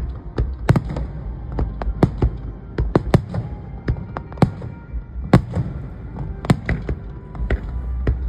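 Fireworks display: an irregular volley of sharp bangs, several a second, over a low rumble.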